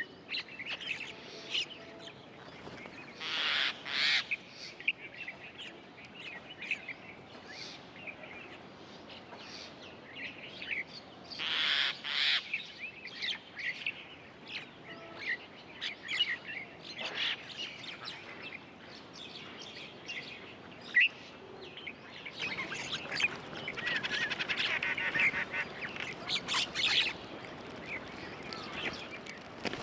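Wild birds chirping and calling in short, overlapping notes, with a couple of louder, harsher calls about three seconds in and again around twelve seconds, and a busier burst of calling in the last third.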